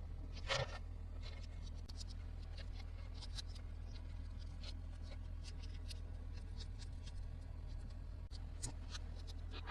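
Toy packaging and plastic parts being handled close to the microphone: scattered light clicks and crinkles, with one louder rustle about half a second in, over a steady low hum.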